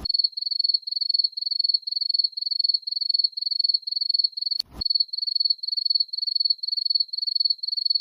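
Crickets chirping, a stock sound effect: one high chirp repeating evenly, about three times a second. A short click breaks in a little past halfway.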